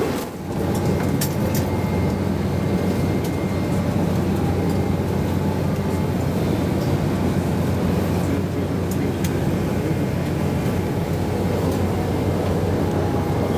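Cabin noise inside a Bombardier CRJ-900 on the ground: a steady low rumble with the hum of its rear-mounted jet engines at low power, with a few faint ticks.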